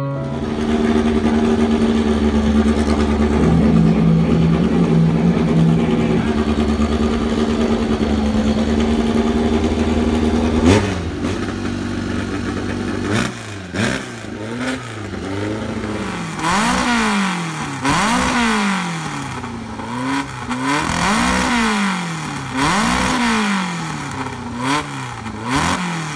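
The engine of a small Fiat 126-type race car running at a steady speed, then, from about halfway, revved up and down over and over, roughly once every second and a half.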